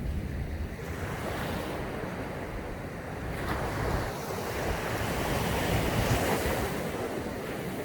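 Sea waves breaking and washing up on a sandy beach, the surge swelling about halfway through and easing near the end, with wind rumbling on the microphone.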